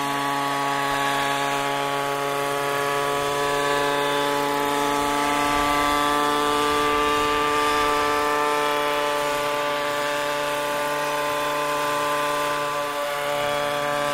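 Radio-controlled scale model helicopter running in flight: a steady, buzzing engine-and-rotor note that holds a nearly constant pitch.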